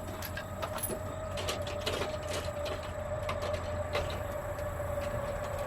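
Light irregular clicks and rattles of shotgun shells being handled, over a steady hum.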